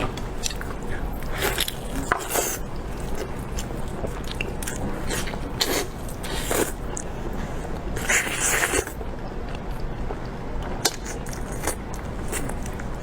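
A person biting and chewing food close to the microphone: scattered short crunches and wet clicks, with a longer noisy crunch about eight seconds in.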